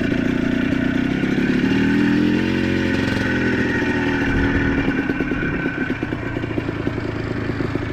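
ATV engine running while being ridden, revving up briefly about two seconds in and then easing back to a steady run.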